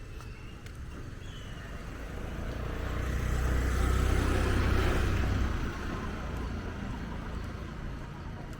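A car passing by: its engine and tyre noise grows louder over a couple of seconds, is loudest about four to five seconds in, then fades away.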